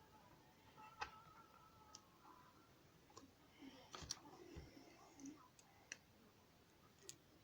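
Faint, scattered clicks and taps of small plastic Lego pieces being handled and pressed together, about eight irregularly spaced clicks.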